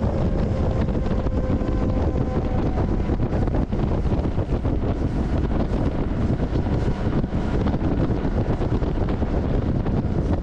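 Wind buffeting the microphone over the steady running rumble of a moving freight train. A faint, slightly falling whine fades out in the first three seconds.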